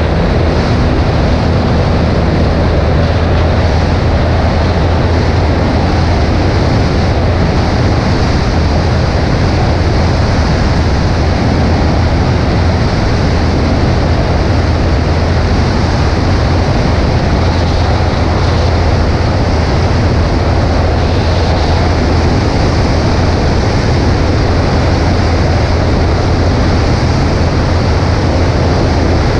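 Cessna 140A's piston engine and propeller droning steadily in cruise, with a constant rush of wind noise over it; no change in power.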